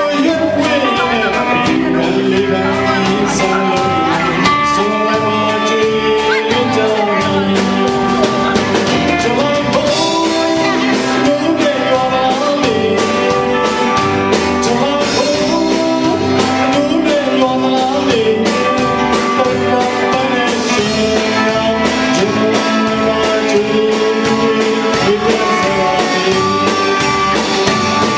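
A Burmese song playing: a voice singing a melody over a band accompaniment with a steady beat.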